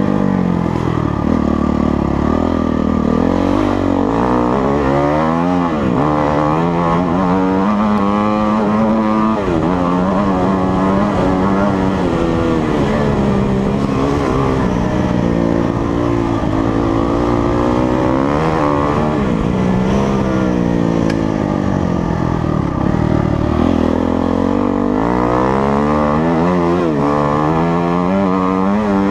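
Motocross dirt bike engine revving hard and easing off over and over, its pitch climbing and dropping every second or two as the throttle is worked.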